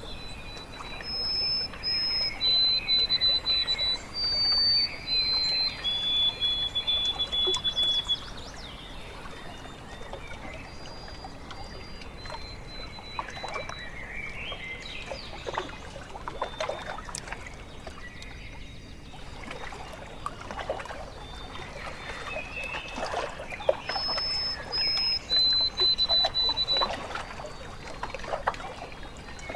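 Lake water lapping and trickling at the shore in small splashes. A bird sings a phrase of clear whistled notes that step down in pitch, near the start and again near the end.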